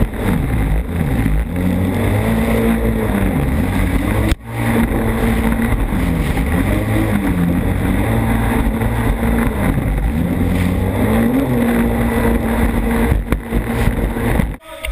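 Jet ski engine running under way, its pitch rising and falling again and again as the throttle changes, over rushing water and wind. The sound drops out sharply for an instant about four seconds in, and again just before the end.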